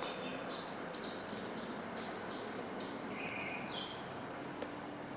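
Small birds chirping: a run of short, high, falling chirps, about two or three a second, over a steady hiss.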